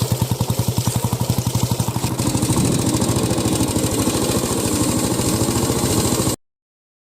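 A vehicle's engine running with an even, rapid pulsing beat, a little louder and smoother after about two seconds. The sound cuts off abruptly about six seconds in.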